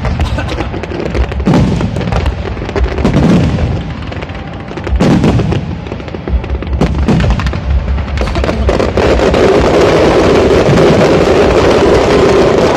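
Aerial fireworks shells bursting, a deep boom about every two seconds, then from about eight seconds in a dense, continuous crackle of many shells at once.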